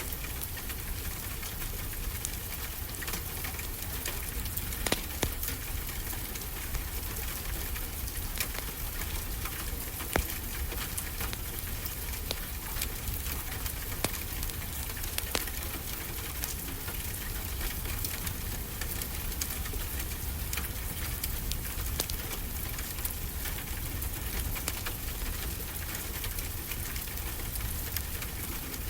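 Wood fire crackling, with scattered pops and a few sharper snaps, over a steady wash of ocean surf.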